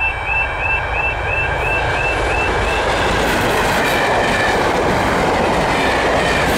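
Level crossing yodel alarm warbling about twice a second, then drowned as a test train hauled by a class 37 diesel locomotive passes at speed, with wheels clattering over the rails.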